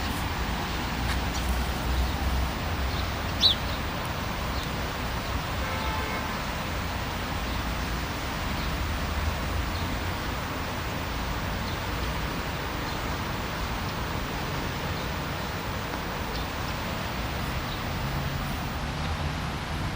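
Outdoor city ambience: a steady hiss over a low rumble of distant traffic, with a short bird chirp about three and a half seconds in.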